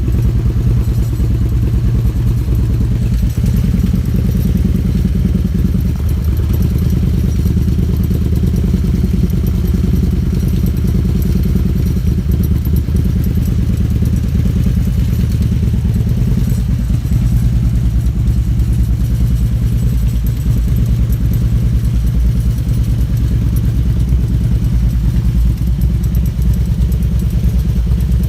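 Harley-Davidson V-twin engine idling steadily as it warms up, standing still.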